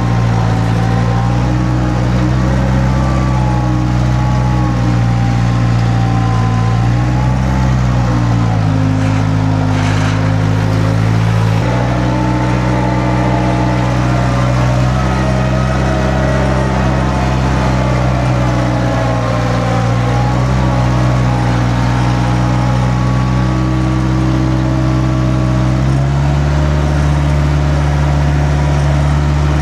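Skid steer engine running hard at working speed, its pitch shifting a few times, with hydraulic whine rising and falling over it as the machine works.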